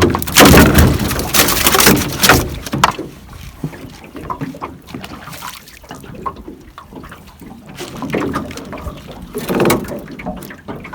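Water sloshing and splashing against a small boat, with loud noisy bursts in the first three seconds and again near the end, and scattered knocks and rustles between as the gill net and catch are handled in the boat.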